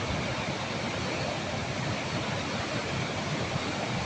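Floodwater rushing: a steady, even noise with no breaks.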